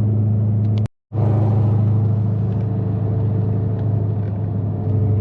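Ford Mustang's Coyote 5.0 V8 droning steadily at highway cruise, with a split-second dropout to silence about a second in.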